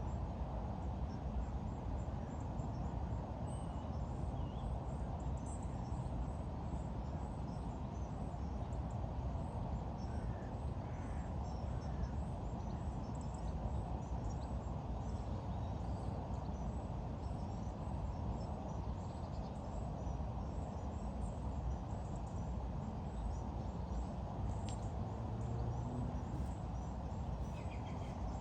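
Steady low outdoor background noise with faint, scattered bird chirps over it.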